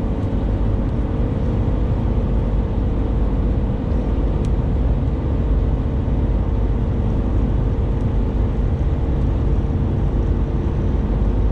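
Steady road and engine noise inside a moving vehicle's cabin at highway speed, a loud low rumble with a constant hum over it.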